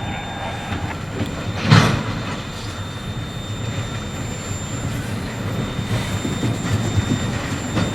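Freight train on the move, a steady low rumble from the train, with one loud knock about two seconds in.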